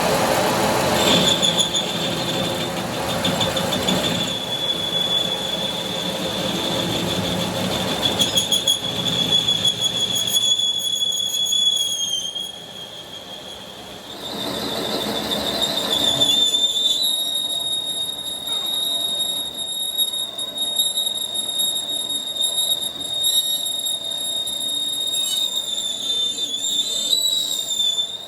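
Steady, high-pitched metal squeal from metal being machined on an axle housing, with a short break about 12 seconds in before the squeal starts again.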